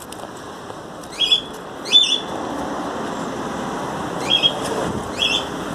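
A bird chirping: short high calls, mostly in pairs, about a second in and again near the end, over a steady background hiss.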